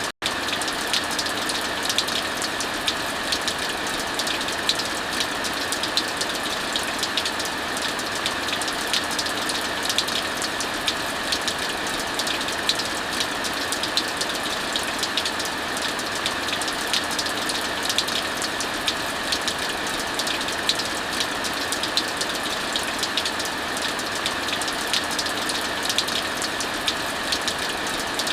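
Heavy rain falling steadily, mixed with a wood fire crackling in many small sharp pops. The sound drops out for a split second just after the start.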